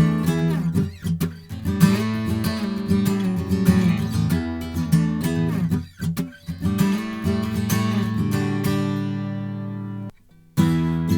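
Slope-shoulder dreadnought acoustic guitar strummed and picked in chords. A last chord rings out and fades, and is cut off abruptly about ten seconds in; after a short gap the playing starts again.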